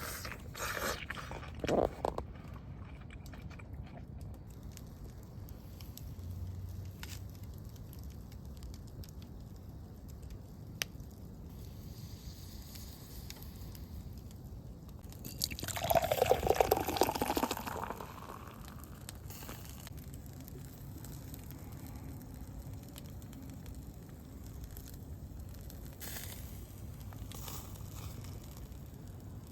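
Quiet camp cooking with liquid sounds and faint scattered clicks, and a louder liquid pour or splash lasting about two seconds about halfway through, its pitch sliding downward.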